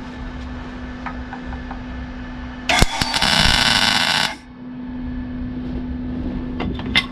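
A MIG welder humming steadily at idle, then striking an arc about three seconds in and laying a short weld burst of crackling that stops abruptly after about a second and a half when the trigger is released. A few small clicks of handling sit on either side.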